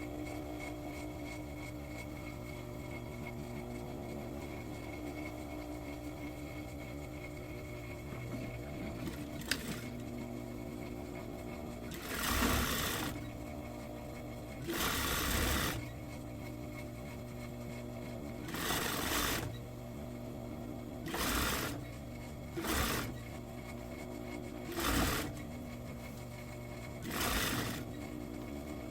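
Sewing machine stitching a trouser seam in seven short runs, the first about 12 seconds in, each lasting up to a second and a half, over a steady hum.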